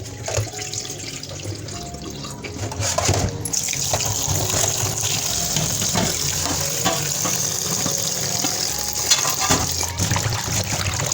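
Water running and splashing, as from a tap into a sink or basin, growing louder and brighter about three and a half seconds in.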